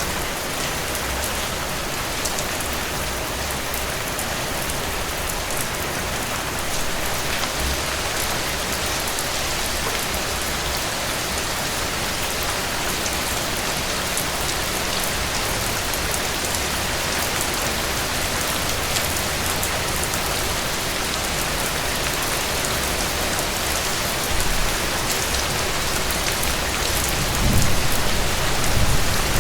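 Heavy rain falling steadily, a dense even hiss of drops hitting surfaces. A low rumble swells briefly near the end.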